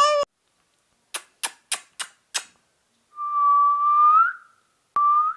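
Five quick sharp clicks, then a long steady whistle that slides upward at its end, and a second, shorter whistle rising the same way near the end.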